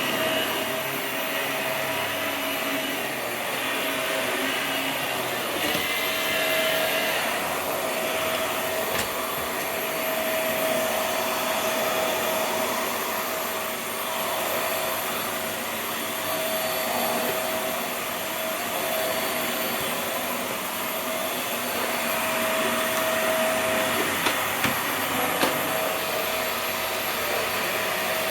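Vax Air Stretch upright vacuum cleaner running steadily, a constant motor hum with a steady whine, and a few sharp knocks near the end.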